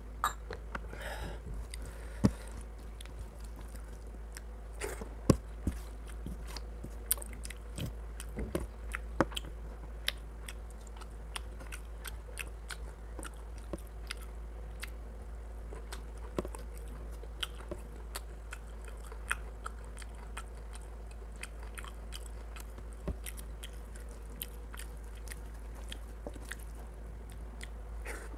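Close-up eating sounds of a person chewing mouthfuls of rice and chicken curry, with frequent short, wet clicks throughout and a few louder ones, over a steady low hum.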